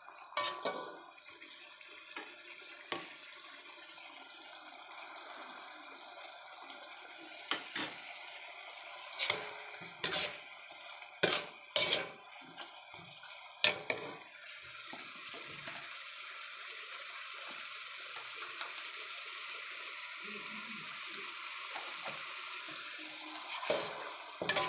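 Chicken pieces sizzling in thick spicy soy sauce in an aluminium wok, with a metal spatula clacking and scraping against the pan about eight times in the first half. The sizzling grows louder and fuller about halfway through as the sauce cooks down, with the dish nearly done.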